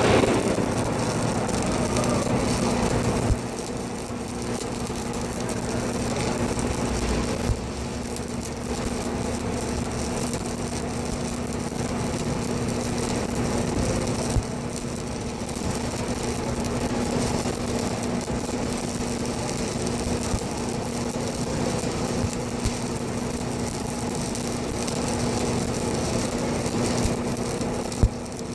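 A machine running steadily: a constant hum under an even hiss, with a few sharp clicks.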